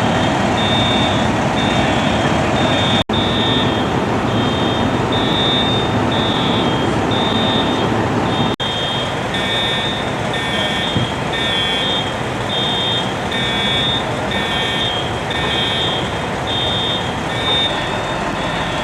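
Fire truck engine running steadily, with a high-pitched electronic beeping, about two beeps a second alternating between two close pitches; a second beeping joins about halfway through.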